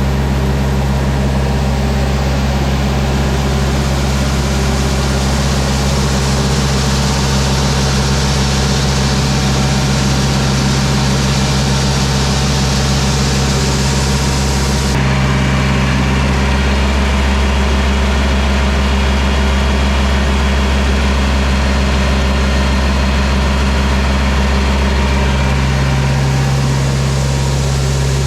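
Steady running of heavy farm machinery engines with a low, even hum under a broad hiss, as a grain truck unloads corn into an auger hopper. The higher hiss drops off abruptly about halfway through while the engine hum carries on.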